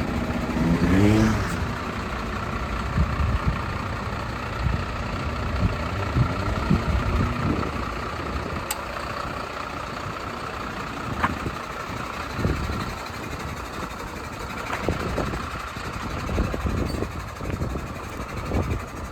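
MAN TGM 18.290 truck's diesel engine revving up with a rising pitch in the first second or so, then running steadily, with a low rumble and irregular low thumps.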